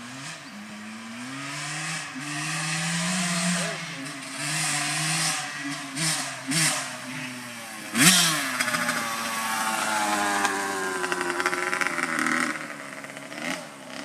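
Dirt bike engine being ridden, its pitch repeatedly rising and falling with the throttle, with quick revs about six seconds in and the loudest rev about eight seconds in.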